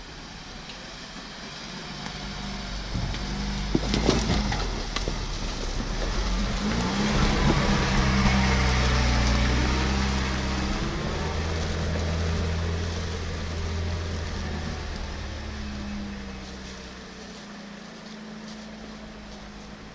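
An off-road 4x4's engine running under load, growing louder to a peak about eight seconds in and then fading away, with a few sharp knocks about four seconds in.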